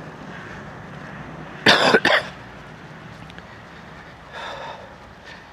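A man coughs twice in quick succession, about a second and a half in.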